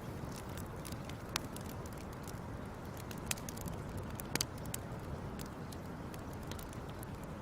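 Wood fire crackling: a steady low rush with a few scattered sharp pops, the clearest about a second and a half in and a pair around four and a half seconds.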